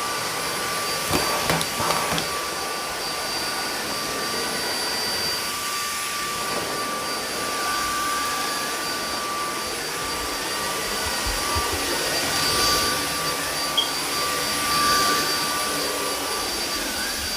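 Samsung Jet 75 cordless stick vacuum running steadily, a high whine over an even rushing of air, with a few light knocks as it is pushed over the floor.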